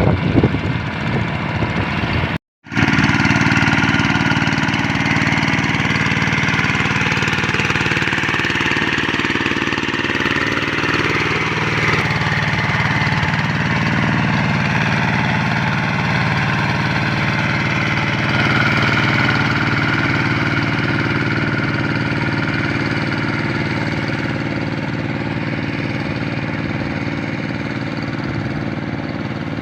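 Single-cylinder Kubota RD85 diesel engine of a walk-behind hand tractor running steadily. The sound cuts out briefly about two and a half seconds in, then the engine carries on.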